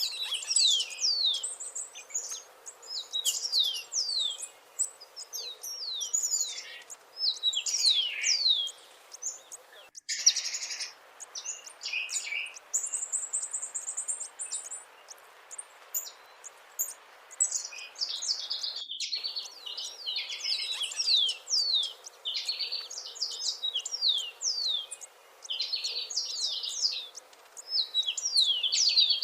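Birds chirping and singing: a dense run of quick, high chirps, many sweeping downward in pitch, with the sound cutting out briefly about ten and nineteen seconds in.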